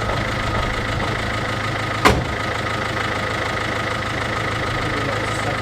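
MINI R56's 1.6 HDi DV6 four-cylinder diesel engine idling steadily, with one sharp click about two seconds in.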